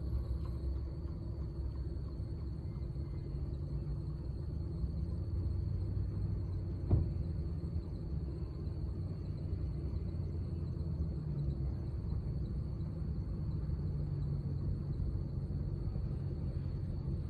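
Steady low rumble of a train rolling by, with a single sharp knock about seven seconds in.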